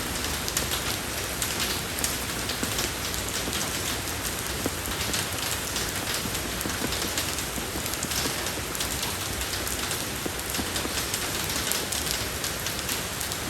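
Steady rain falling on a road surface: a continuous hiss of rain with many small drop ticks, even throughout.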